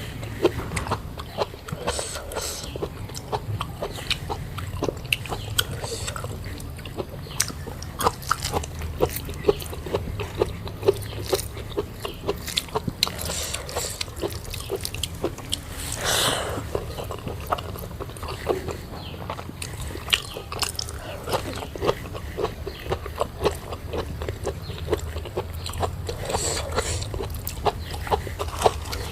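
Close-up mukbang eating sounds: steady chewing with many small wet clicks and mouth smacks, and one brief louder rush of noise about sixteen seconds in.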